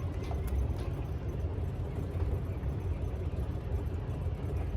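Steady low rumble of an idling engine, with a couple of faint clicks about half a second in.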